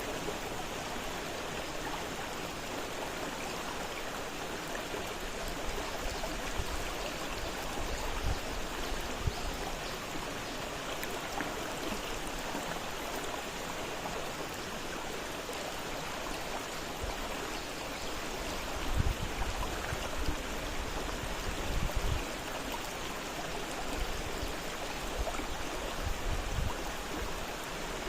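River water flowing fast, a steady rushing and gurgling. A few brief low rumbles come through in the last third.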